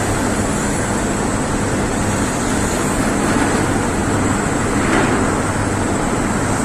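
Excavator's diesel engine running steadily amid loud, continuous blast furnace cast-house noise, with a constant low hum and a faint high whine.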